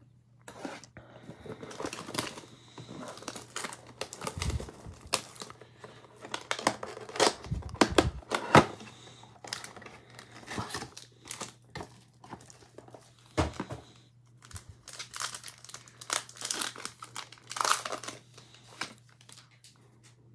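Plastic wrapping on a football trading card box and its packs being torn open and crinkled by hand, in irregular rustling bursts with sharper rips now and then.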